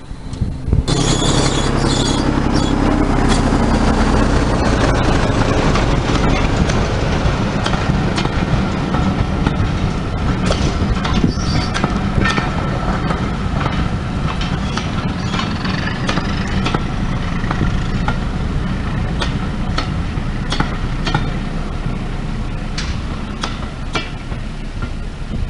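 Diesel-hauled heritage passenger train of old British Rail coaches passing close by, starting abruptly about a second in: a steady low rumble with many sharp clicks of the wheels over the rail joints.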